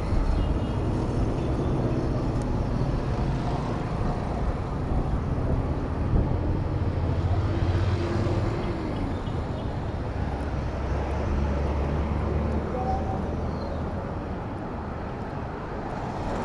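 City road traffic heard from a bicycle among it: nearby motor vehicle engines running with a steady low hum that shifts as vehicles pass.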